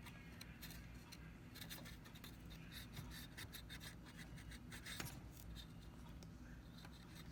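Faint scratchy scrubbing and rubbing on the Teddy Ruxpin's tape-player parts as blue corrosion and grime are cleaned off, in a quick run of small strokes with one sharper tick about five seconds in.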